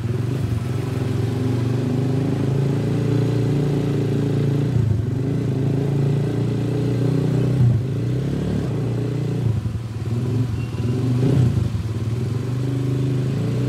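Motorcycle engine running steadily at low revs, with a couple of brief throttle blips near the middle and later in the stretch.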